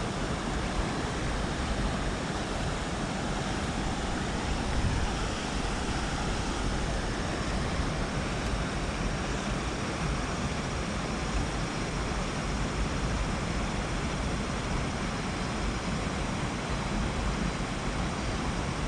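Steady rush of moving water, an even noise with no breaks.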